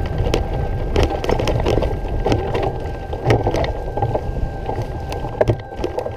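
Steady low rumble of a moving vehicle, with frequent rattles and knocks and a faint steady whine.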